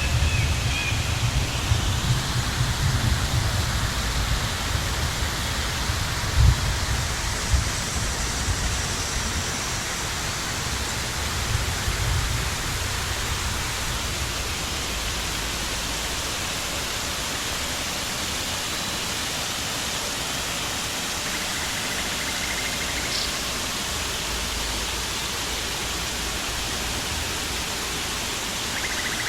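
Steady rush of flowing water. Low rumbling and a few thumps come and go over the first several seconds, then the hiss stays even.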